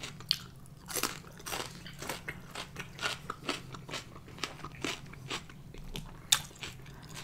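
A person chewing crunchy food: a run of irregular crisp crunches, a few a second.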